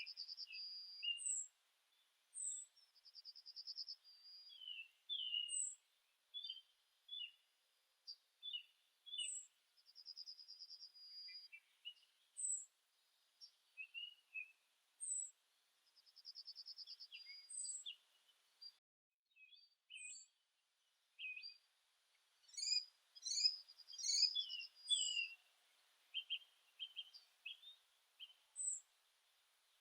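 Several small songbirds singing and calling: a high, thin note repeated every second or two over short buzzy trills and chirps, with a busier flurry of calls about three quarters of the way through.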